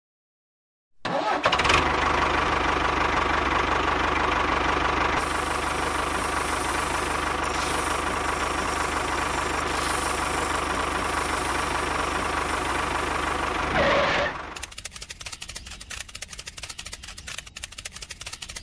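An engine starts abruptly and runs steadily at one speed, then stops near the end. A fast, rattling ticking follows.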